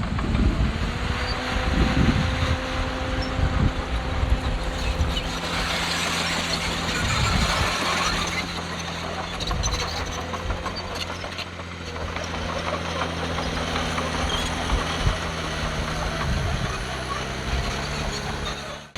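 Diesel engine of heavy earthmoving machinery running steadily, with a louder rushing noise for a couple of seconds about six seconds in and a few scattered knocks.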